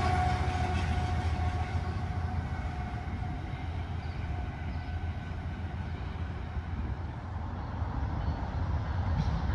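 BNSF freight train rolling away, with a GE AC44C4M diesel locomotive at its end. Its sound fades over the first few seconds, and steady wind buffets the microphone.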